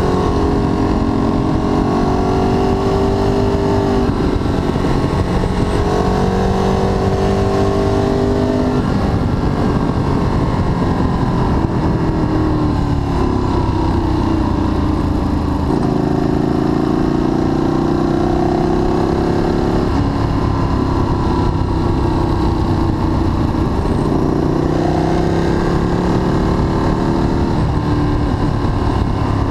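Ducati Streetfighter 1098S's L-twin engine under way, heard from the handlebars, its note rising and falling and stepping in pitch every few seconds as it changes gear, over a steady low rush of wind.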